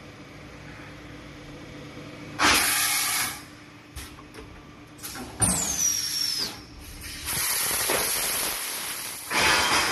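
Tube laser cutting machine running: repeated bursts of hissing air, about a second or two each, over a steady machine hum, with one high whine falling in pitch near the middle.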